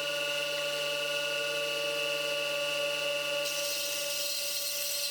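A stationary woodworking power tool running steadily with an even hum, with no sign of a cut being made.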